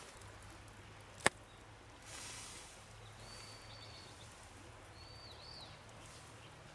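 Campfire with one sharp wood pop about a second in, over a faint hiss. A small bird gives thin high calls twice, in the middle and later on.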